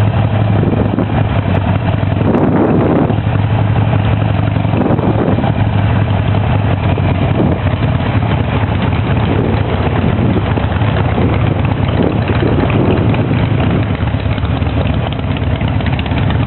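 Harley-Davidson motorcycle V-twin engines running steadily with a low, even hum.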